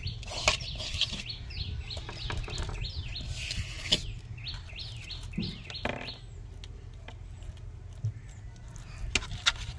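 Small birds chirping in a quick run of short repeated notes for the first several seconds, over a low steady rumble. A few sharp clicks come near the start, about four seconds in, and near the end.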